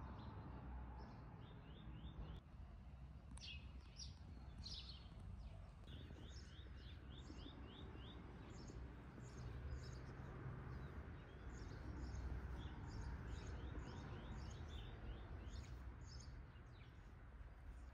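Garden songbirds singing: several runs of quick, high chirps and scattered single calls, over a faint low steady rumble of outdoor background noise.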